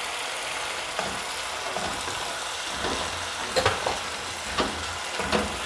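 Sauce and chopped onions sizzling in a hot steel pot while a wooden spatula stirs them, knocking and scraping against the pan several times.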